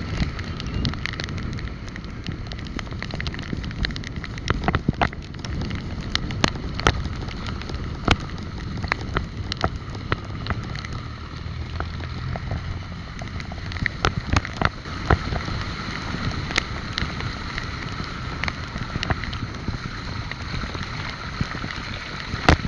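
Bike riding noise: wind on the microphone over a low road rumble, with frequent sharp rattles and knocks as the bike goes over the road surface.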